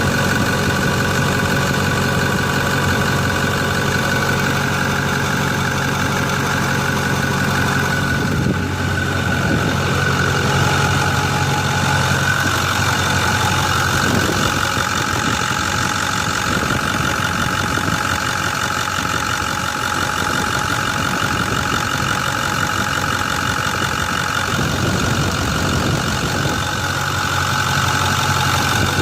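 Ford 6.4L Power Stroke V8 diesel with a Borg S366 single-turbo conversion idling steadily after a fresh build, with a steady high whine over the engine note.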